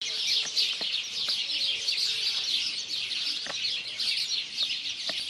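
Many birds chirping at once, a dense unbroken chorus of quick, high calls.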